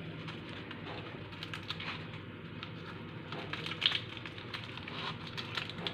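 Light, irregular crackling and ticking of a shawarma roll crisping on a hot pan, over a soft steady hiss, with one slightly louder tick about four seconds in.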